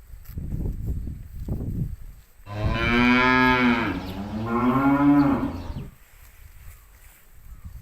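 A cow mooing once: a long call of about three and a half seconds in two joined parts, the second rising and then falling in pitch. It is preceded by a low rumbling noise.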